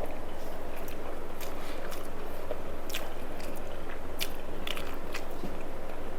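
Close-up chewing and biting of a mouthful of food, with a few sharp crunchy clicks, over a steady background hiss.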